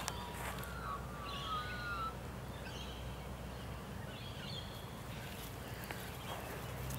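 Birds calling in the background: a short warbling whistle about a second in, then several brief high chirps, over a steady low outdoor rumble.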